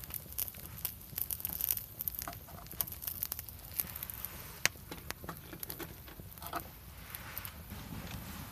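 Wood fire crackling in a DANRO camp fireplace, with sharp irregular pops scattered through it over a low steady rumble.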